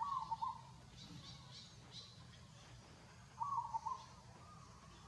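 Two short, wavering animal calls about three seconds apart, with faint high chirps between them.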